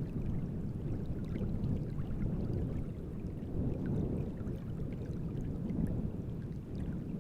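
Small wind-driven waves lapping and splashing at the reservoir shore, with many little splashes over a low rumble that swells and eases every few seconds.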